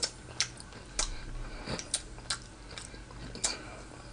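Close-miked chewing of pork chop meat eaten by hand, heard as short, irregular mouth clicks and smacks.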